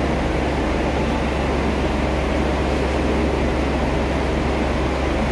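Steady drone and hiss of the Aru Ressha, a stationary diesel railcar, idling at the platform, with its engine and air-conditioning running and a constant low hum.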